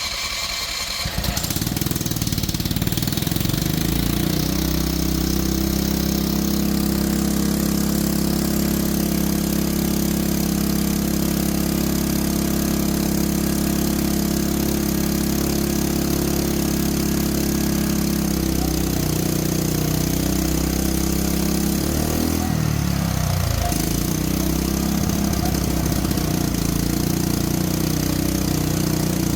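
Small petrol engine starting and then running steadily under load, with a fuel-processor bubbler feeding its intake. Its note rises as it catches in the first second or two, then holds steady; about two-thirds of the way in the note wavers and dips for a few seconds before settling again.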